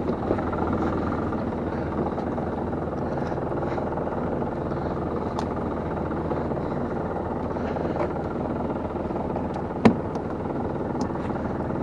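Fishing boat machinery running steadily during gill-net hauling, a low engine drone, with one sharp knock about ten seconds in.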